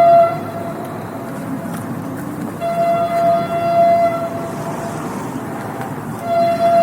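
Train horn sounding in separate blasts over the steady rumble of the moving train: one blast dies away just after the start, a longer one sounds through the middle, and another begins near the end.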